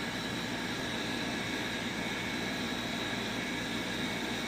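Gas furnace draft inducer motor running steadily, a constant whoosh with a few steady whining tones, during the ignition sequence while the hot-surface igniter heats up.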